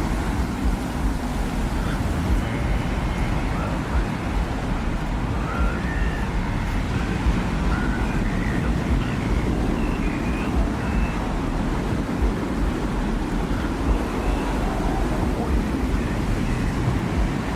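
Steady low rumbling desert wind with a hiss over it, and short faint whistling tones scattered through it.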